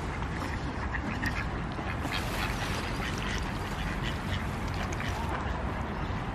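Ducks quacking in short, scattered calls over a steady low background noise.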